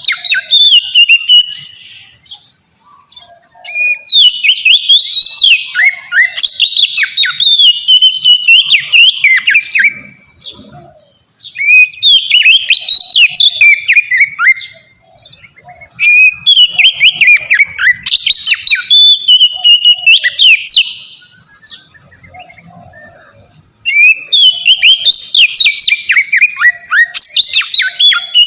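Oriental magpie-robin (kacer) singing its full, open song: bouts of rapid, varied whistled and chattering phrases, each a few seconds long, with short pauses between bouts.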